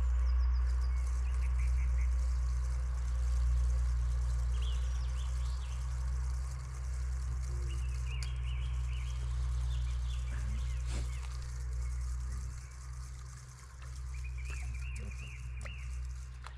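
Small birds chirping in short bursts over a steady low rumble.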